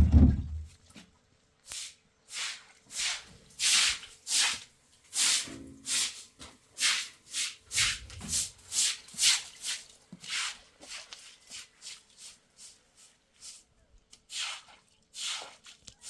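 A low thump, then a run of rhythmic scraping strokes, about two a second, that grow fainter and sparser after the middle.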